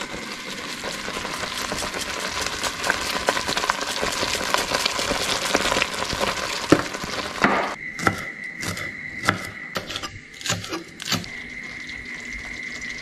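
Chilli crab sauce sizzling in a hot pan as it is stirred, a dense crackling hiss. About seven and a half seconds in the sizzle drops away and a run of separate sharp clicks and knocks follows, over a faint steady high tone.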